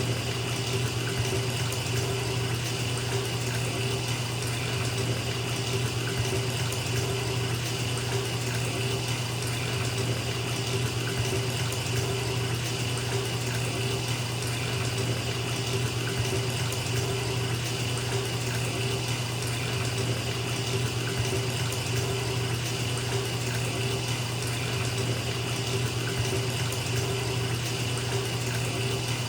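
Bathtub filling from the tap: water pouring steadily into the tub water, an unbroken rushing splash with a low hum under it.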